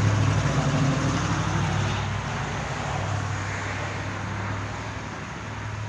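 Road traffic noise over a steady low hum, fading steadily as a vehicle recedes.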